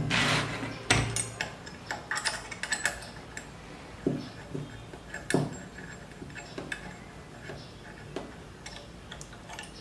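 Metal machine parts and hardware being handled while fitting parts to a CNC Z-axis assembly: a flurry of sharp clicks and clinks in the first few seconds, then a few single knocks spaced out.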